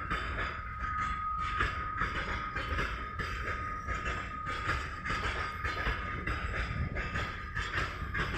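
Freight train wagons rolling past, with a steady rumble and wheels knocking over the rail joints several times a second. A thin steady squeal runs alongside and is strongest over the first two seconds.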